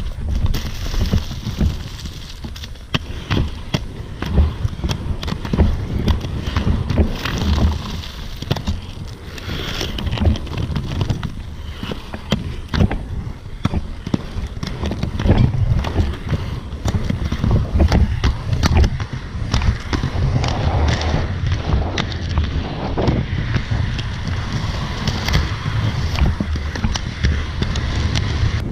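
Inline skates with large 125 mm wheels rolling fast over pavement, with wind buffeting the microphone and many short clicks and clatter from the skates throughout.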